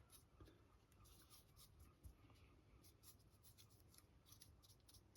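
Near silence, with faint, quick scratchy strokes of a paintbrush on a 3D-printed model.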